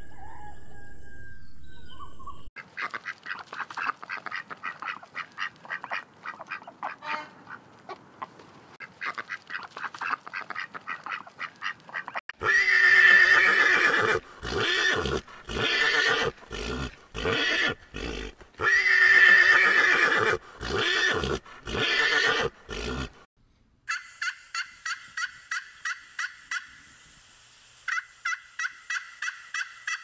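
A run of animal calls. First a bird flock chattering in quick notes. Then a mule braying loudly over and over, long calls broken by short ones, for about ten seconds. After that a wild tom turkey gobbling in evenly spaced short notes near the end.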